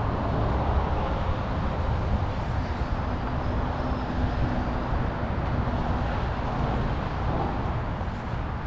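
Steady road traffic noise, heavy in the low end, with a faint low hum passing through the middle.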